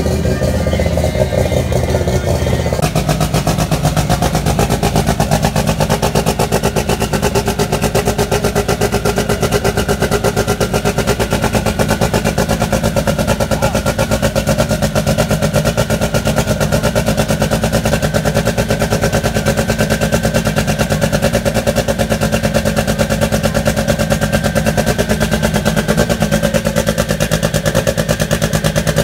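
Turbocharged drag-race Volkswagen Beetle engine running at a steady, loud idle, its note shifting slightly about three seconds in.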